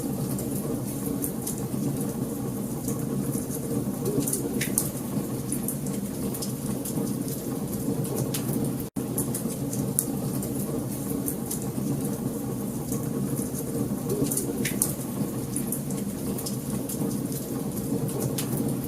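Wood fire burning in a fireplace: a steady low rush of flame with frequent small crackles and two louder pops, about five seconds in and near fifteen seconds. The sound cuts out for an instant about nine seconds in.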